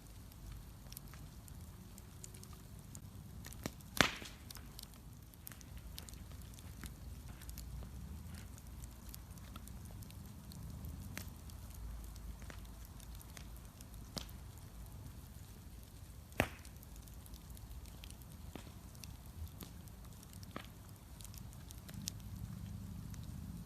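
Wood bonfire burning, with a low rumble of flame and scattered small crackles, and two sharp loud pops, about 4 seconds in and again about 16 seconds in.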